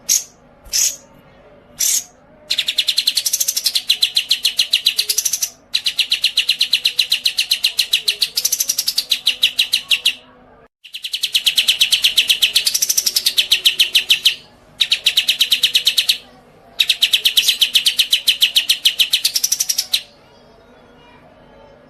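A songbird giving a few short chirps, then a series of long, fast, evenly pulsed chattering trills, each lasting a few seconds with short breaks between them.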